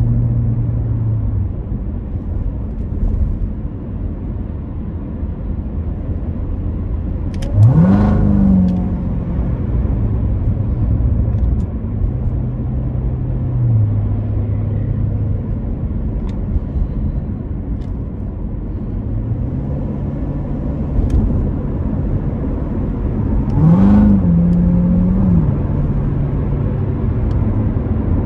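Supercharged 6.2-litre V8 of a 2019 Chevrolet Corvette Z06 running under way with road noise, heard from inside the cabin. The revs climb quickly twice, about eight seconds in and again near the end.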